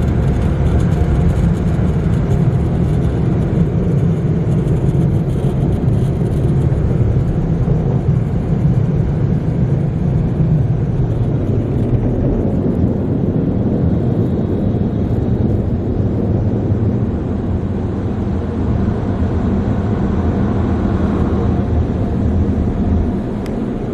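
Tunnel car wash dryer blowers running: a loud, steady rush of air with a deep rumble. It eases slightly just before the end.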